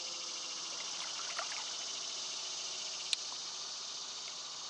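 Evening chorus of insects, a steady high trilling, with a single sharp click about three seconds in.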